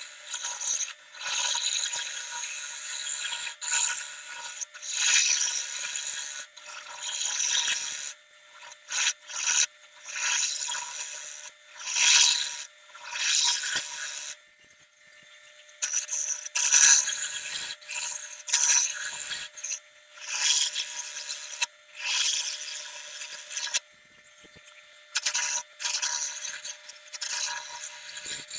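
Rubbing and scraping against wood in repeated irregular strokes, each a second or two long, with short pauses between, over a faint steady hum.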